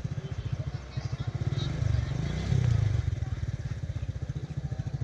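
A vehicle engine idling with a fast, even low throb that swells briefly about halfway through.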